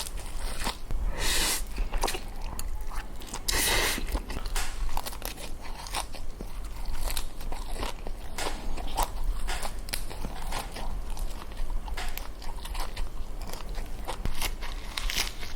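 Close-miked eating sounds of noodles in black bean sauce: steady chewing with many small wet clicks and crackles, and two longer, louder rushing sounds about a second and a half and four seconds in.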